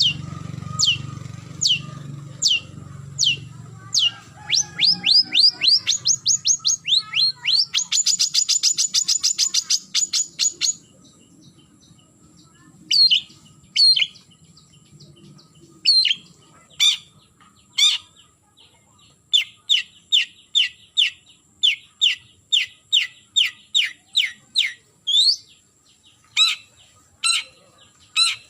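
Long-tailed shrike calling with sharp, downward-slurred notes. About eight seconds in the notes speed up into a rapid chattering run. After a short pause it goes on with a steady series of about two notes a second.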